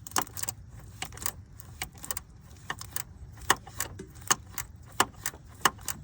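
Hand ratchet clicking in short runs of sharp metallic clicks, several a second, as a cooling-fan mounting bolt is worked loose.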